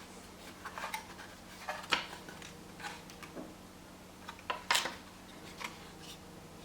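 Unboxing handling noises: irregular clicks, taps and rustles of packaging and parts being handled, the loudest cluster just before five seconds in, over a steady low hum.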